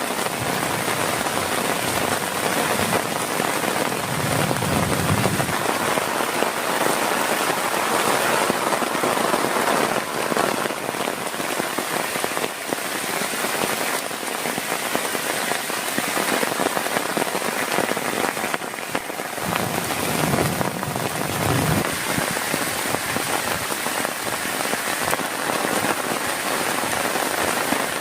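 Heavy rain pouring steadily onto a surface, with brief low rumbles about four seconds in and again around twenty seconds in.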